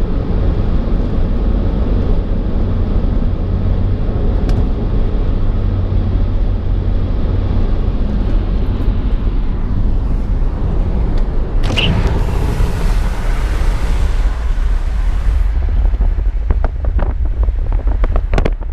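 Car driving along a road: a steady low rumble from the engine and tyres, with wind noise. A short burst of higher hiss comes about twelve seconds in, and a few clicks sound near the end.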